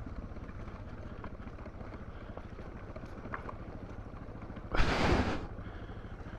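Motorcycle engine running low and steady while descending a steep rocky downhill, with a few light ticks. About five seconds in, a brief loud rush of noise.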